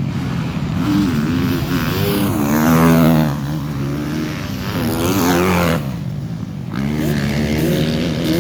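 Motocross bike engines revving, pitch climbing and falling several times as they accelerate and back off, with a short lull about six seconds in.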